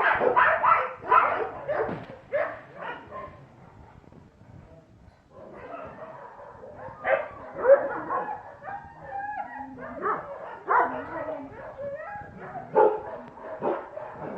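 Dogs barking and yipping, with whines mixed in. A quick run of barks at the start, a short lull about four seconds in, then barking and yips pick up again.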